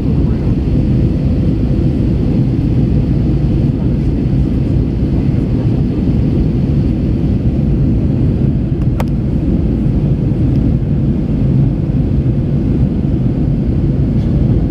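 Steady in-flight cabin noise of an Airbus A321 airliner: engine hum and airflow, heavy in the low end with a faint steady tone. A single short click about nine seconds in.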